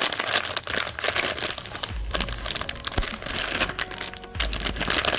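Cardboard blind box being torn and crumpled open by hand: dense crinkling and tearing, with a few dull knocks from handling.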